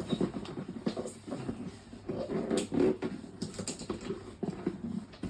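Gift packaging being handled and unwrapped: irregular rustling with light clicks and taps.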